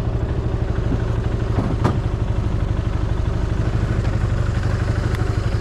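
Yamaha Majesty 400 scooter's single-cylinder four-stroke engine running steadily at idle, with one sharp click about two seconds in.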